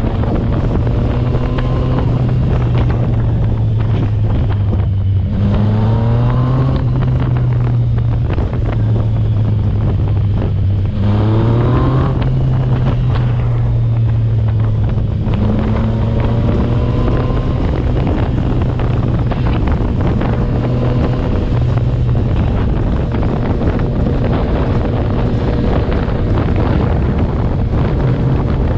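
Yamaha MT-09's three-cylinder engine running through a tuned Yoshimura exhaust while riding, with wind noise on the microphone. The revs climb twice, about five and eleven seconds in, then settle to a steady cruise.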